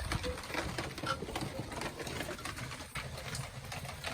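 Heavy rain falling, a dense, irregular patter of drops.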